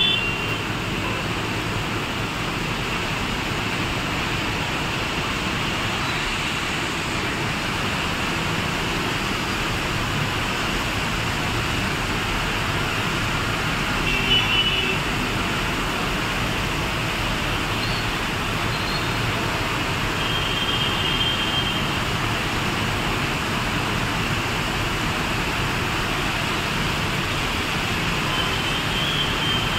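Heavy rain falling, a steady hiss, with wet-road traffic blended into it. A few short high-pitched beeps sound in passing, near the start, about halfway through and near the end.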